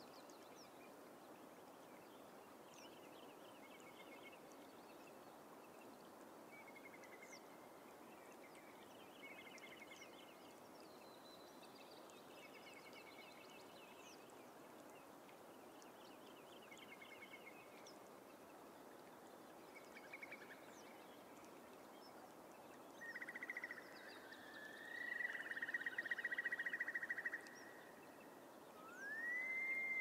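Bog birds calling: repeated short trilled phrases throughout, a louder fast trill from about 23 to 27 seconds in, and a rising whistled call near the end, over a steady faint hiss.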